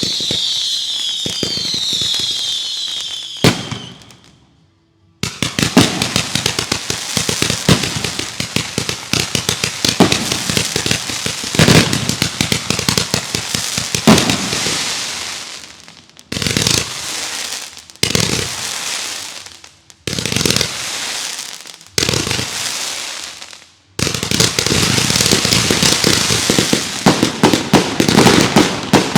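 Consumer fireworks going off in volleys. Whistles sound in the first few seconds, then come long runs of rapid sharp pops and bangs, broken by short pauses between shots in the middle.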